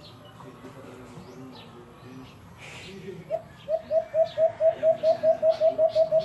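A bird calling a fast run of about fourteen short, identical cooing notes, about four a second, starting a little after three seconds in.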